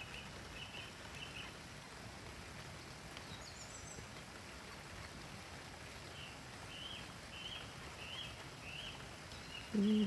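Birds calling over a steady outdoor hiss: a run of short high notes in the first second or so, a quick higher twitter about three to four seconds in, and another run of short high calls from about six seconds to near the end.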